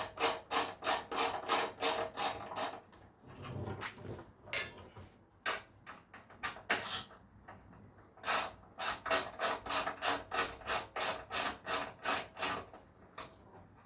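Hand ratchet clicking in quick, even strokes, about four a second, as Torx T25 fasteners are undone. There are two runs, with a few scattered knocks from the tools between them.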